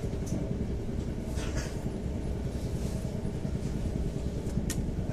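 Steady low rumble of a passenger train, heard from inside the carriage, with a few faint clicks.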